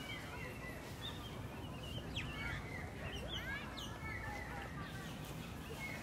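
Several birds chirping, with short quick calls sliding up and down in pitch, busiest in the middle, over steady low background noise.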